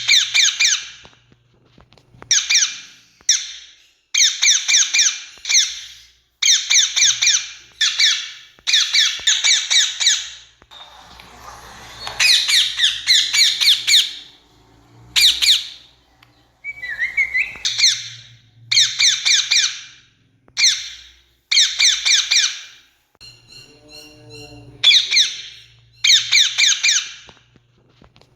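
Rose-ringed parakeets (Indian ringneck) giving loud, harsh screeching calls in bouts. Each bout is a quick run of several sharp notes, and the bouts repeat every second or two with short pauses between them.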